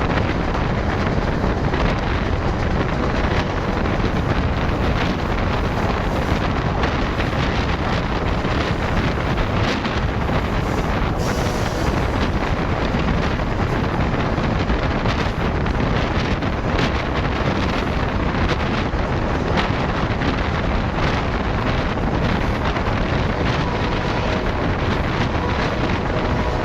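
Loud, steady rush of wind buffeting the microphone over the running noise of a fast-moving diesel train.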